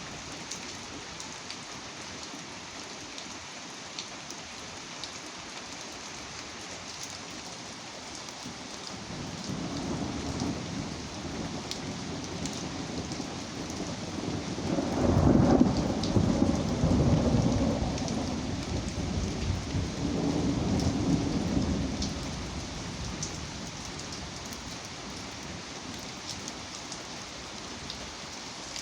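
Steady rain with scattered drops ticking. A long roll of thunder builds about a third of the way in, is loudest near the middle, swells once more and rumbles away.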